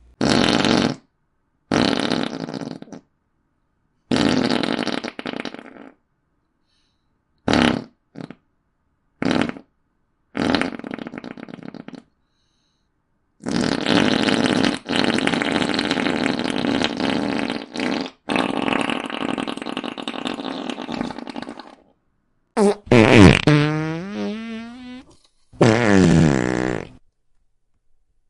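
A string of fart sound effects, about ten separate blasts with short silences between them. Most are short, and one drawn-out fart in the middle lasts about eight seconds. Near the end come two squeakier ones whose pitch falls.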